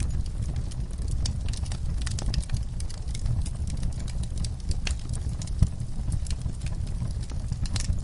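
Fire in a fireplace crackling: frequent irregular sharp pops and snaps over a low, steady rumble, with one louder pop a little past halfway.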